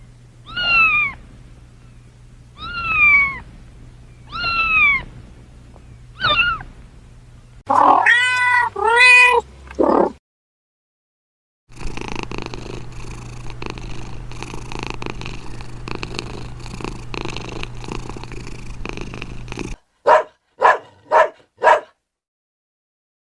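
Domestic cat meowing: four separate calls, each falling in pitch, then two louder drawn-out meows, followed after a short gap by several seconds of steady purring. Near the end come four short sharp calls in quick succession.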